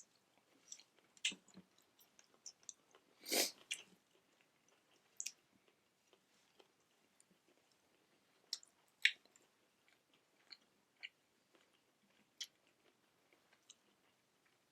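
Close-miked eating: food being chewed, with scattered small mouth clicks and a louder bite about three and a half seconds in.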